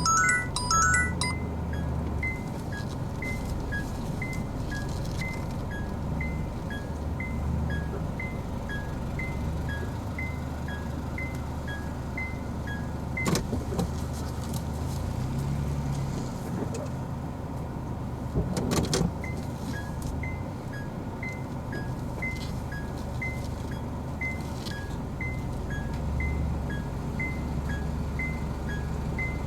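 Honda Odyssey RA2 with its engine running and a steady low hum. A regular, light ticking at about one and a half ticks a second goes on throughout. Two short, louder sounds stand out about 13 and 19 seconds in.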